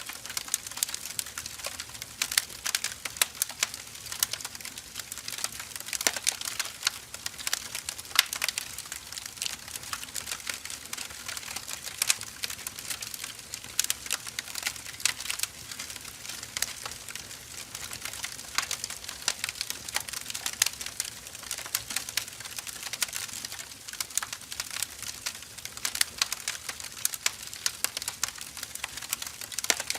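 Burning firewood crackling, with a dense run of small snaps and scattered louder pops.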